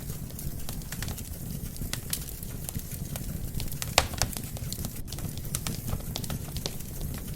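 Wood fire crackling: irregular sharp pops scattered over a steady low rush of burning logs, with the loudest pop about four seconds in.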